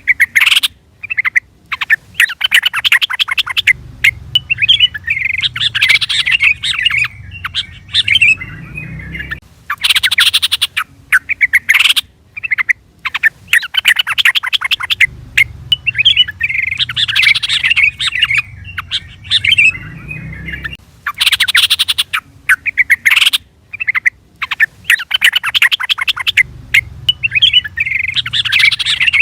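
Yellow-vented bulbul (trucukan) calling: short bursts of harsh, rapid chattering notes alternate with longer bubbly, warbled phrases. The sequence comes back about every eleven to twelve seconds, like a looped lure call.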